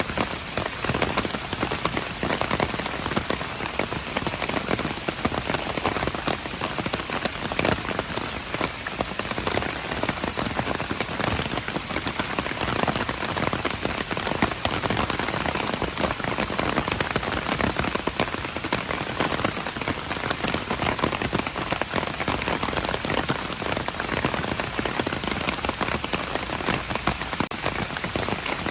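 Steady rain, a dense, even patter of countless drops that holds constant throughout.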